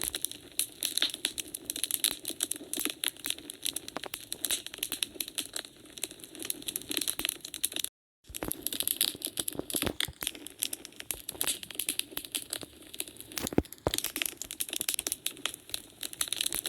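Wood fire crackling and popping in a fireplace, a dense, irregular run of small snaps over a soft hiss, with one sharper pop a little past three-quarters of the way through. The sound cuts out completely for a split second about halfway through.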